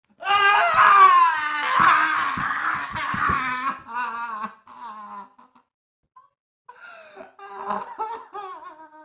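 A man laughing wildly, loudest in the first few seconds, then dying away; after a pause of about a second the laughter starts again, quieter.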